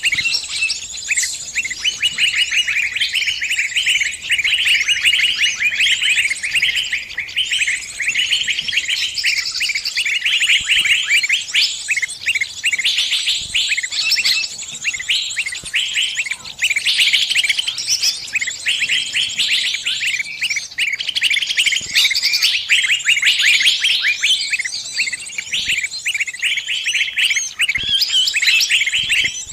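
A small bird's distress calls, as given by a trapped bird calling to its flock: a dense, unbroken stream of rapid, high chirps.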